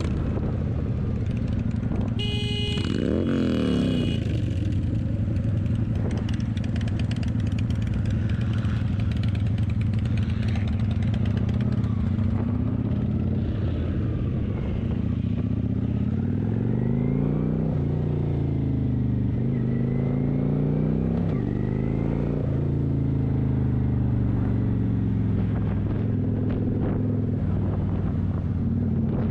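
Motorcycle engine running under way, with a brief drop in revs about three seconds in and the revs rising and falling several times around the middle.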